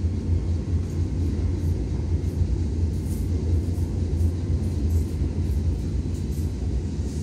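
Nagano Electric Railway 3500-series electric train heard from inside the passenger car: a steady low rumble of the car running on the rails.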